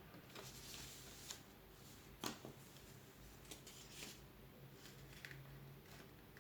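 Faint rustling and creasing of a sheet of paper being folded, with a few soft crinkles.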